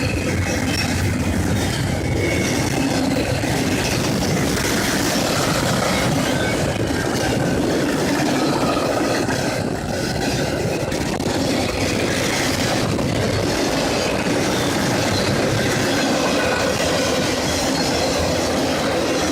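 CSX intermodal freight train cars rolling past at speed, a steady loud rumble with wheels clicking over the rail joints and faint, wavering wheel squeal.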